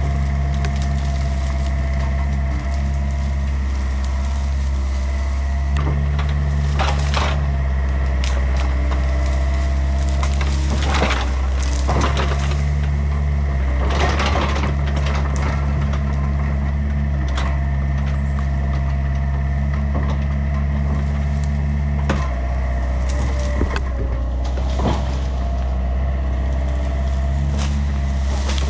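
Compact excavator's diesel engine running steadily under hydraulic load, its note shifting as the machine works, while hickory wood cracks and splinters a handful of times as the tree is broken up.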